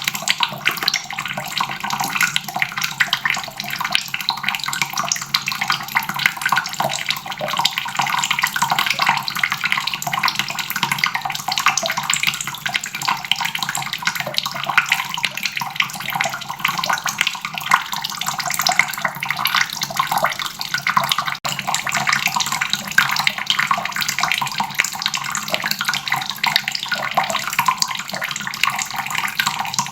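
Water faucet running steadily, a continuous splashing stream of tap water without a break.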